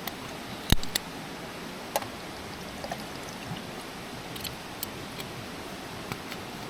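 Wood campfire crackling: irregular sharp pops and snaps over a steady hiss, the loudest pop about three-quarters of a second in.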